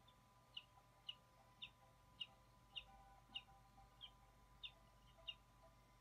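A bird calling a series of about nine short, high, falling notes, evenly spaced at roughly two a second.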